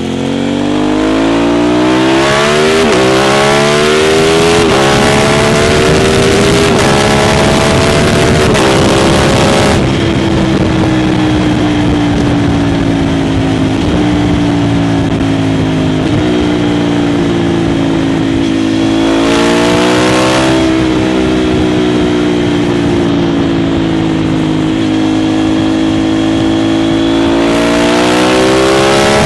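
Aprilia RS660 parallel-twin engine through an Arrow full exhaust system, accelerating hard through the gears with several quick upshifts in the first ten seconds, then cruising at steadier revs, with two more bursts of throttle later on, near the middle and near the end.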